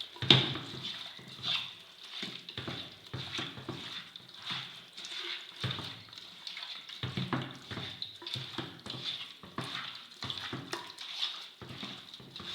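Hands mixing raw chicken pieces with turmeric in a bowl: irregular wet squelching and sloshing, with small knocks against the bowl.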